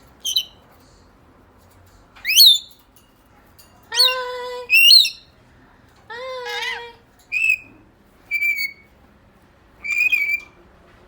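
Pet parrot calling: a string of about eight short squawks and whistles, including a sharp rising whistle about two seconds in and a few longer, buzzy calls near the middle.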